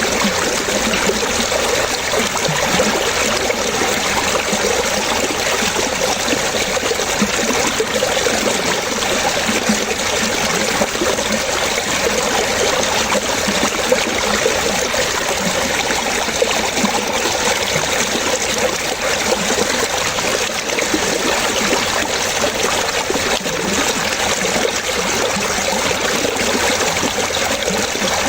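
Running water trickling and splashing steadily, like a small stream, with no breaks or changes.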